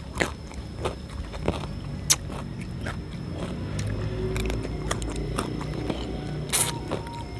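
Crisp crunching and chewing as a person bites into the husk and soft shell of a young green coconut (cengkir). A string of sharp crunches, loudest about two seconds in and again near the end.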